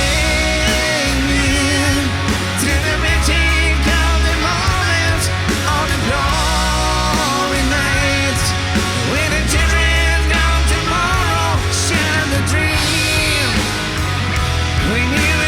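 Rock band playing an instrumental passage: a wavering lead melody with vibrato, most likely electric guitar, over bass and drums.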